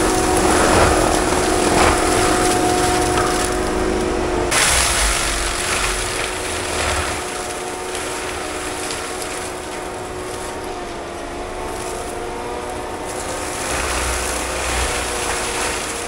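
Forestry mulching machine running, a steady mechanical whine over engine and hydraulic noise. The whine changes pitch about four and a half seconds in and drifts slowly later on.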